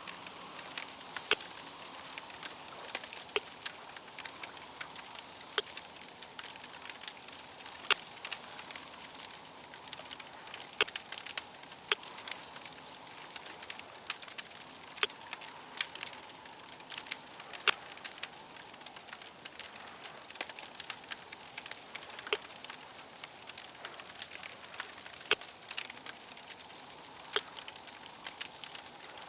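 A wood fire crackling: irregular sharp pops and snaps, several a second, over a steady hiss.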